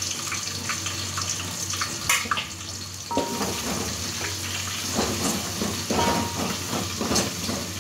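Sliced onions, dried red chillies and garlic frying in oil in an aluminium pot, with a steady sizzle. From about three seconds in, a wooden spoon stirs and scrapes against the pot in quick strokes.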